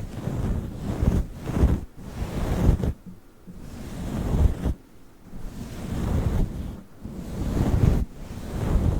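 Fluffy furry microphone cover rubbed and brushed over the microphone, giving a deep rustling noise. It swells and fades in uneven strokes a second or two long.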